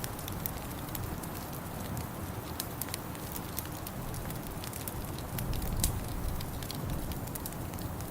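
Wood fire in a fireplace crackling, with frequent sharp pops and snaps over a steady low rumble; one louder pop about six seconds in.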